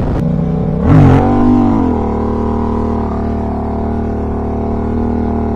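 Motorcycle engine revving once, sharply up and back down about a second in, then running at a steady speed.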